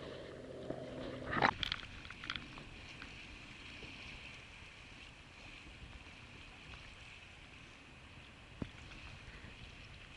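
Water sloshing and lapping around a kayak as waves and boat wakes pass, with a sharp splash about a second and a half in. A low, steady engine hum stops at the same moment.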